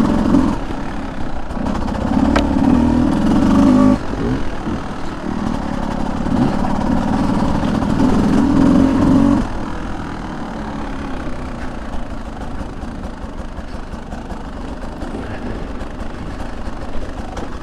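Beta 200 two-stroke dirt bike engine running under load, revs rising and falling through two stretches of harder throttle, then easing off to a lower, steadier drone about halfway through.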